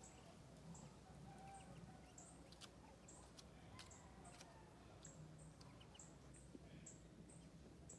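Faint outdoor ambience with a small bird's short, high chirps repeated about once a second, and a few faint clicks.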